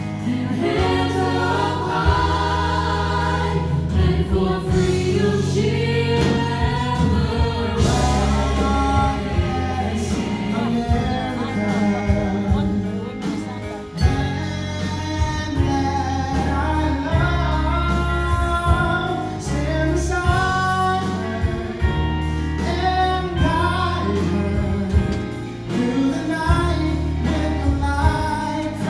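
Choir and solo voices singing a gospel-style song over a band with steady bass and drum hits.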